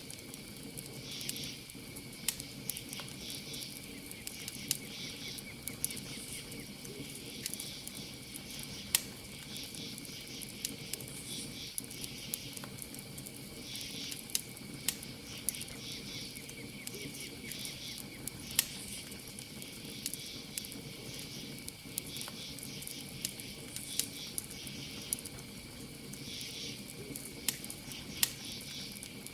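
Campfire crackling, with irregular sharp pops over a low steady hiss, while crickets chirp steadily in the background with a continuous high trill and repeated pulsing bursts of chirps.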